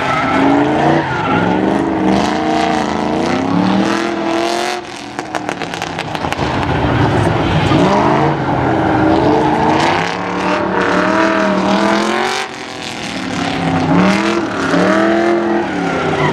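Engine of a drifting vehicle revving, its pitch rising and falling over and over, with two short drops in level, about five seconds in and about twelve seconds in.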